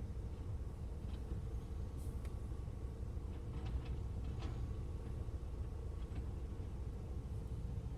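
Engine running at a steady low rumble with a faint constant hum, a few faint ticks over it.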